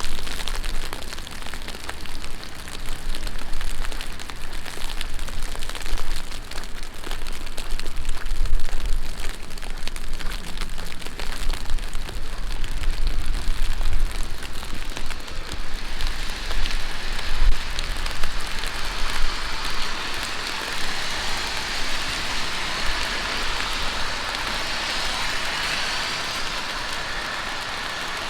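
Heavy rain falling on a city street, with dense close patter of drops striking near the microphone. About halfway through, a smoother, steady hiss swells up over the patter.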